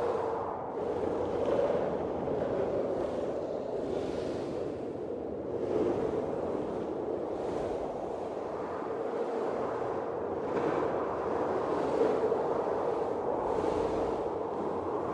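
Blizzard wind blowing in gusts: a continuous rushing that swells and eases every few seconds.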